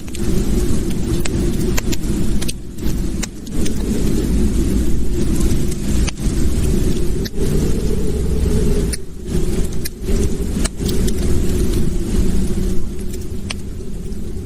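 Wood fire crackling in a fireplace: a steady low roar of flames with frequent sharp pops and snaps.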